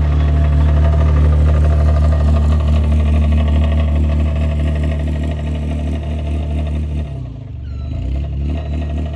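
Site dumper's engine running steadily. About seven seconds in, the revs dip briefly and then pick back up.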